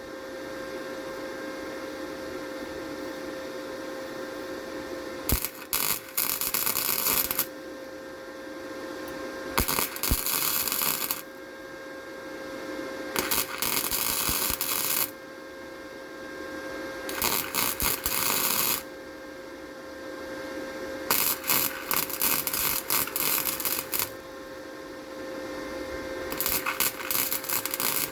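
Electric arc welder tack-welding an exhaust tip onto the exhaust pipe: six bursts of crackling arc noise, each about two seconds long, with a steady hum between them.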